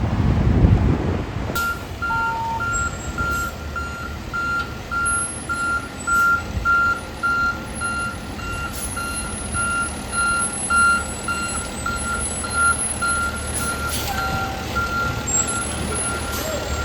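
Fire truck's back-up alarm beeping steadily, about twice a second, over the low rumble of its engine as it reverses. The engine rumble is louder in the first second, before the beeping starts.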